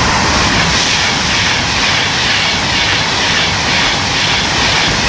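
A Class 390 Pendolino electric express passing through at speed, a loud steady rushing roar of wheels and air.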